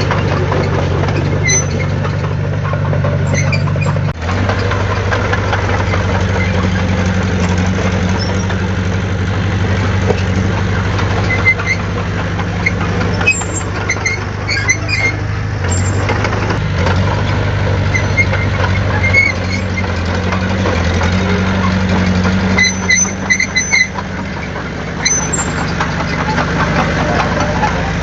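Heavy diesel earthmoving machinery running steadily, with a low engine note throughout. Short high-pitched metallic squeaks and clicks come and go, bunched together near the end.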